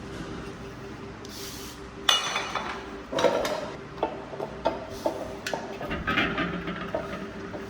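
Irregular metallic clinks and knocks, a few per second from about two seconds in, over a faint steady hum.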